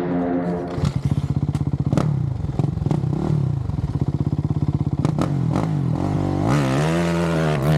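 Dirt bike engine running with a fast pulsing throb, then revved up and back down once near the end, with a few sharp knocks and clatter mixed in.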